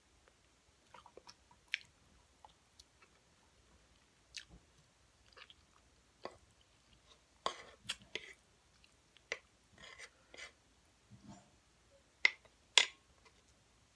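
A person chewing forkfuls of cooked greens close to the microphone: scattered wet mouth clicks and smacks with short gaps between, the two sharpest near the end.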